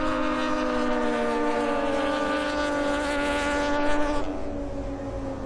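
Racing motorcycle engine at high revs, one steady engine note sinking slightly in pitch, then fading after about four seconds.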